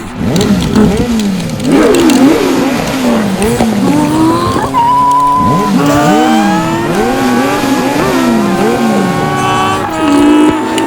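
Several race car engine sounds revving and accelerating over one another as a race starts, the pitch swooping up and down repeatedly at first, then climbing steadily from about four seconds in.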